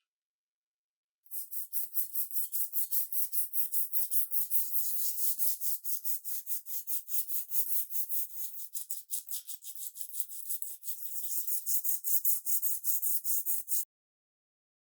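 Quick back-and-forth hand rubbing strokes, about four a second, a dry high hiss as of scrubbing or sanding a part. It starts about a second in and stops abruptly shortly before the end.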